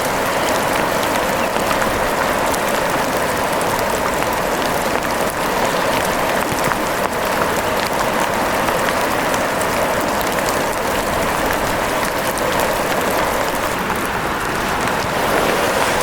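Steady rain: an even hiss with many small scattered taps of drops.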